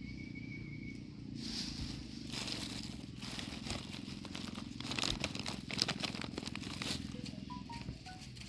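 Rustling, crackling and tearing of monkeys handling and pulling apart food, dense irregular crackles starting about a second and a half in, over a steady low hum.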